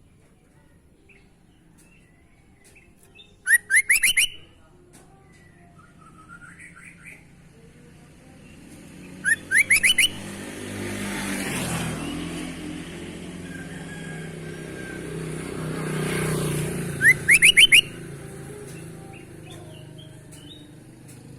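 Sooty-headed bulbul calling in three short bursts, each a quick run of four or five rising whistled notes. Between the bursts, a broad background noise swells up and fades twice.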